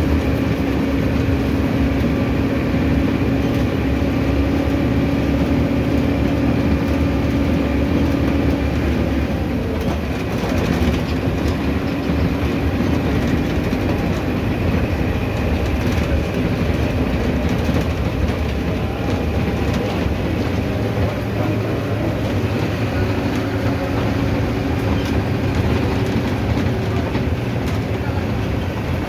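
Mercedes-Benz OF-1519 city bus running along the road, its diesel engine droning with rattles and clatter from the bodywork. About nine seconds in, the engine note drops and changes.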